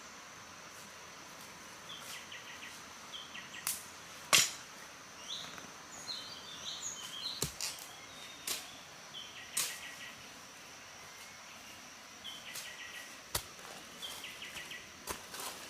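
Forest ambience: birds calling in short, repeated chirping phrases over a steady high insect drone, broken by scattered sharp clicks or knocks, the loudest about four seconds in.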